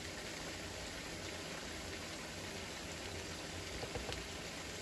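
Onion, ginger and garlic paste sizzling and bubbling gently in oil in a frying pan on medium heat, a low, steady crackle, with a couple of faint clicks about four seconds in.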